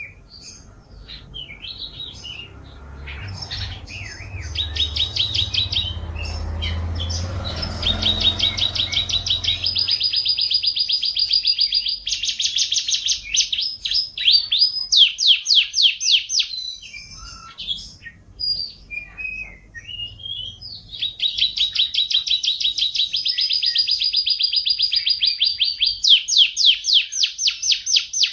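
Domestic canary (F1 kenari) singing a long, continuous song of rapid trills and rolls of repeated notes, pausing to scattered chirps midway before launching into more long trills. A low rumble lies under the song for the first several seconds.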